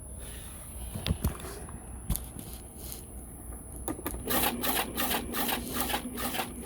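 Window air conditioner running with its fan off balance on worn-out bearings: a low hum with three knocks in the first couple of seconds, then from about four seconds in a fast rattling clatter of several knocks a second.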